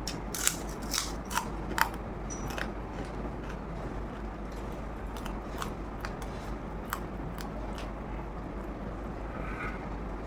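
Close-miked eating: sharp clicks and crunches of chewing and mouth sounds, scattered throughout, with a few louder ones in the first two seconds, over a steady background hiss.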